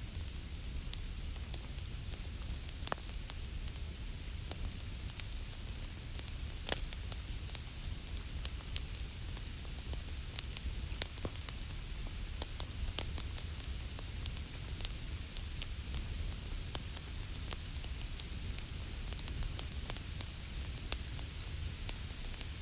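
Wood fire crackling, with frequent sharp irregular pops, over a steady hiss of falling rain and a low rumble.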